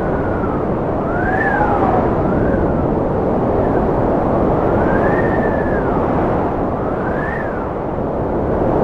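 Strong wind blowing steadily, with a howling whistle that glides up and falls again in pitch several times.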